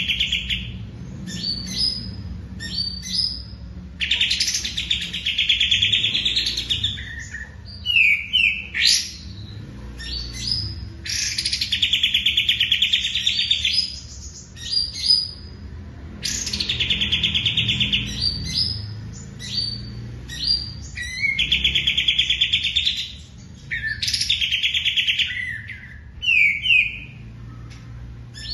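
Songbird singing a repeated song: long, fast, rattling trills of two to three seconds, about six in all, separated by short high chirps and quick down-slurred notes.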